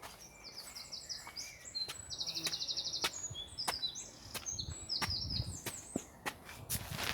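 A small songbird singing: runs of quick, high descending notes and a rapid trill, with footsteps and scattered clicks on the path.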